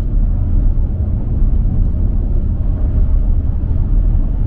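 Car driving at highway speed: a steady low rumble of engine and tyre noise.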